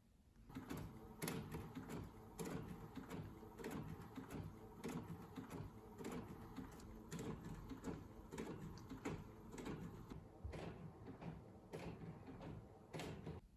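A small machine running for about thirteen seconds, with rapid repeated clicks over a steady hum, starting and stopping abruptly.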